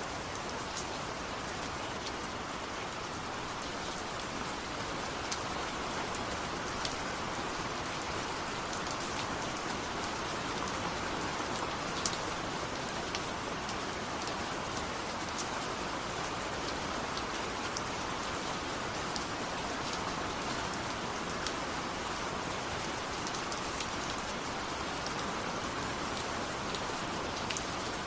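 Steady rain falling, with a dense even hiss and scattered separate drops ticking on a surface.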